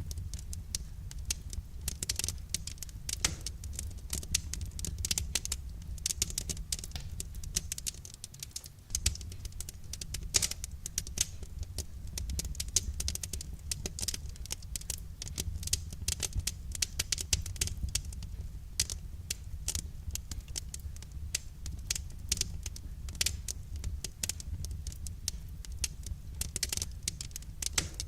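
Wood fire crackling: many irregular small snaps and pops over a steady low rumble of the burning fire.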